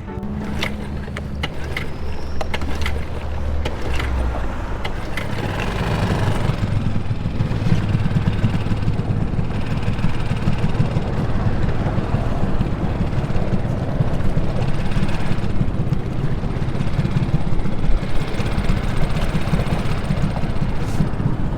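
An engine running steadily with a low rumble, its pitch holding level at first and giving way after about four seconds to a rougher, fluctuating rumble.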